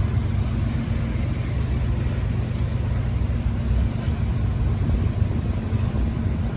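Union Pacific freight train passing, a steady low rumble of wheels on the rails.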